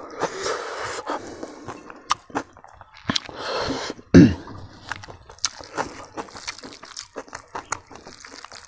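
Close-miked chewing of a mouthful of smoked pork and rice: wet mouth noises and lip smacks with many small sharp clicks, and one louder burst about four seconds in.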